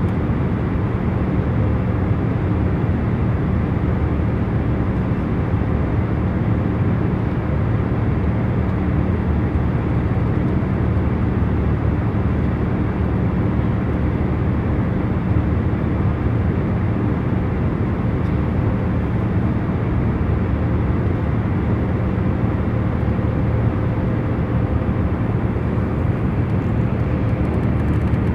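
Airliner cabin noise in cruise: a steady low roar of engines and airflow with a faint constant hum, unchanging throughout.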